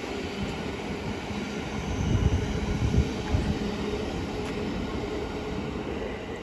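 Class 700 Thameslink electric multiple unit running past on the main line: a continuous rumble of wheels on rail with uneven low thuds, heaviest about two to three seconds in, and faint high tones over it.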